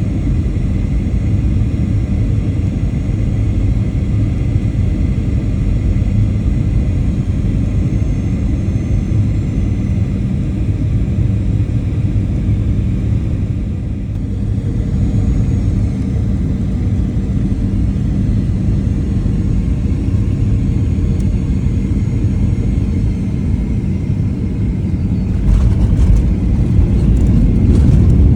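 Cabin noise of an Airbus A350-900 airliner on its landing: a steady low engine-and-airflow rumble with faint whining engine tones, easing briefly about 14 s in. About 25 s in a louder, rougher rumble sets in.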